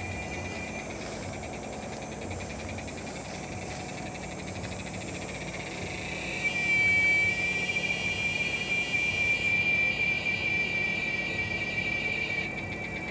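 Giant cicada (Quesada gigas) singing a continuous high-pitched whine. It is fainter with a pulsing texture at first, then swells louder about six seconds in and holds steady.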